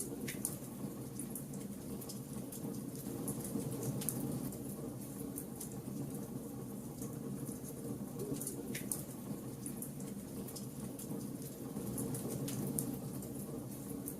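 Wood fire burning: a steady low rush of flames with frequent small crackles and a few sharper pops from the burning wood.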